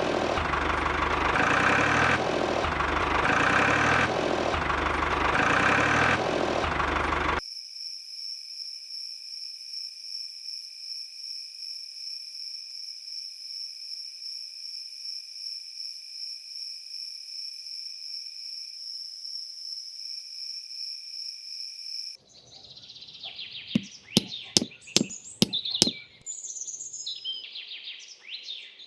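Steady engine-like running noise that swells about every two seconds, cutting off abruptly about seven seconds in. Then a quieter, steady high-pitched whine runs for about fifteen seconds. Near the end come bird chirps with several sharp knocks.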